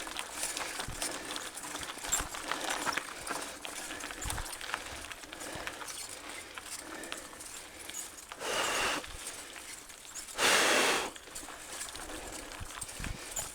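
Mountain bike clattering over a rough dirt trail: irregular knocks and rattles from the bike, with tyre noise on the ground. Two louder hissing stretches come about eight and a half and ten and a half seconds in.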